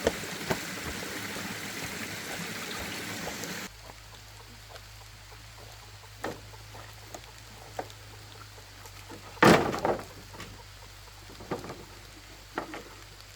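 Steady running water that stops abruptly about four seconds in. Then scattered light clicks and knocks, with one louder knock about halfway through.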